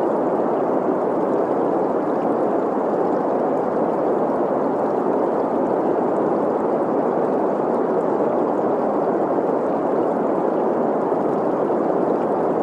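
Green noise: a steady, unchanging hiss centred in the middle range, blended with the rush of a flowing stream.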